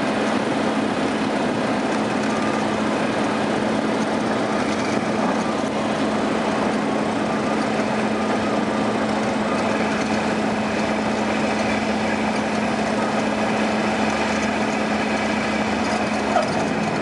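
Cessna 172R's four-cylinder Lycoming engine and propeller running with a steady drone, a constant pitch held throughout, as the plane flies its approach.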